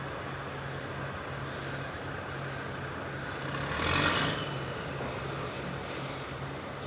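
Truck engine running with a steady, pulsing low hum, and a brief louder burst of hiss-like noise about four seconds in.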